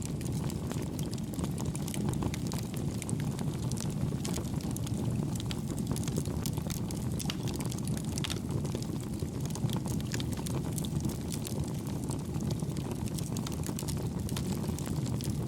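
Campfire burning: a steady low rumble of flames with frequent small, light crackles, at an even level with no loud pops.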